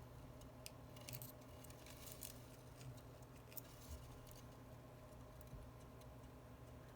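Faint, scattered clicks and light taps of small precision tools handling tiny screws on a phone's internal metal plate, over a steady low hum.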